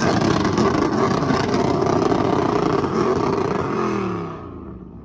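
Pickup truck engine running hard at high revs. About four seconds in, the revs fall away and the sound dies down. The engine is over-revving without drive, which the owner puts down to the transmission plug coming off.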